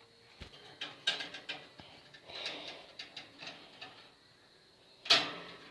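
Scattered light taps, clicks and rustles from a pet budgie moving about close to the microphone, with one louder sharp burst about five seconds in.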